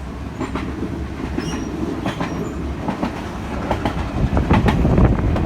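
Passenger train running on the line: a steady low rumble of the carriage with irregular clacks of the wheels over rail joints, growing louder near the end.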